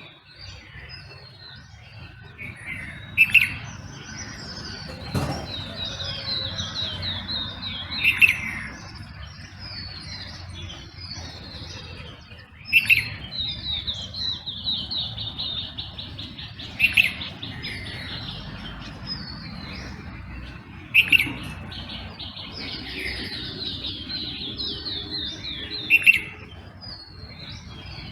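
Birds singing at dawn: continuous high chirping and trilling from several birds, with one louder call repeated about every four to five seconds.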